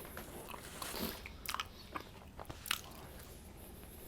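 A person chewing a toasted sandwich close to the microphone, with soft crunches and mouth clicks scattered through.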